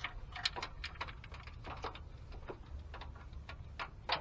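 Irregular light clicks and ticks of ignition wires and their plastic connectors being handled and sorted, with one louder click near the end.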